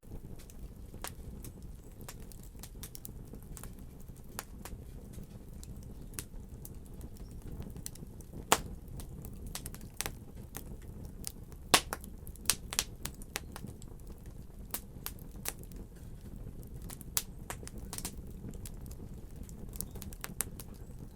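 Wood fire burning in a fireplace: a steady low rumble of flames with irregular sharp crackles and pops. The loudest pops come a little past a third of the way in and just past halfway.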